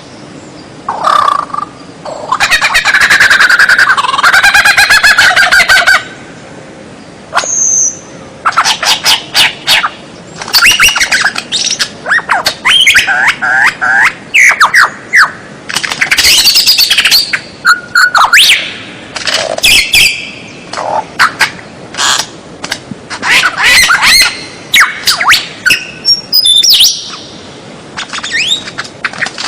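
White-rumped shama (murai batu) singing a loud, varied song: rich whistles, sweeping notes and rapid chattering runs in phrases separated by short pauses, including one longer warbling run a few seconds in.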